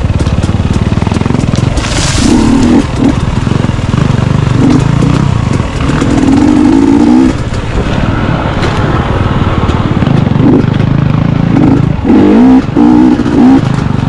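Enduro dirt bike engine running hard on a trail ride, the throttle rising and falling, with several louder surges of revs, the strongest near the end.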